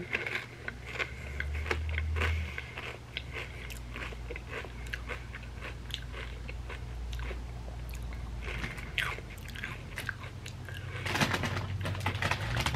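Close-miked chewing of crunchy chips with a creamy dip: a run of crisp crunches and wet mouth sounds, a little louder near the end.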